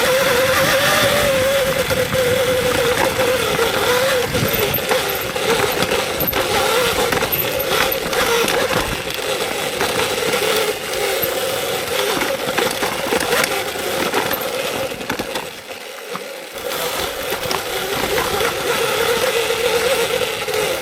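Electric dirt bike running along a trail: the motor's steady whine wavers with the throttle over the rattle and knocks of the bike on rough ground. The bike eases off briefly about three-quarters of the way through, then picks up again.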